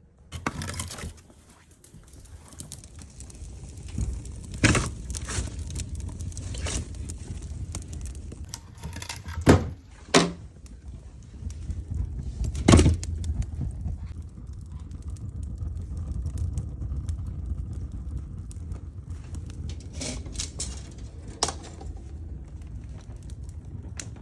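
Firewood being handled while a fire is laid in a fireplace: scattered knocks and clatters of wood, the loudest about five, nine to ten and thirteen seconds in, over a steady low rumble.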